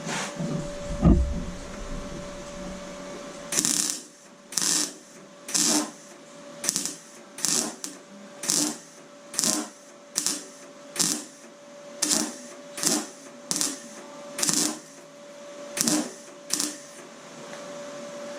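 Welder putting sheet-steel patch repair in with a run of short tack welds: about sixteen crackling bursts, each a fraction of a second long and under a second apart. A steady faint hum runs underneath, and a single thump comes about a second in.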